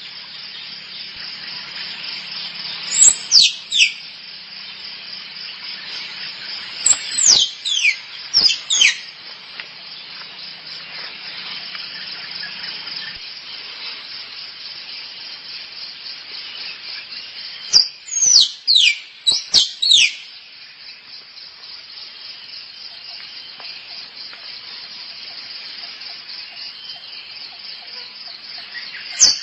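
Squirrel calling: three groups of sharp, high squeaky calls, each sweeping quickly downward, two to five in a row, heard about 3 seconds in, around 7 to 9 seconds and around 18 to 20 seconds. Under them runs a steady, fast-pulsing high trill.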